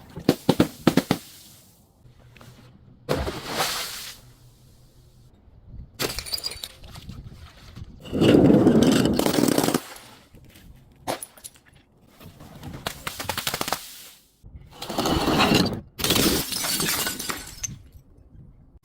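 Objects being crushed and broken in about seven bursts of sharp cracks and crunching, the longest and loudest a dense crunch of a second and a half near the middle.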